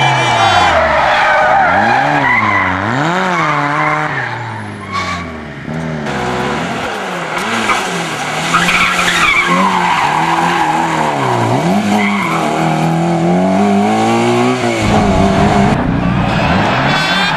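Rally cars at full effort on a stage: engines revving up and falling back again and again through gear changes and lifts, with tyres skidding. There are a few abrupt changes in the sound.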